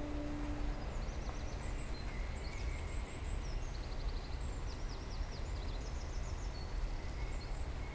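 Small birds chirping in short, quick trills over the steady hiss of rain and a low rumble. Music fades out in the first second.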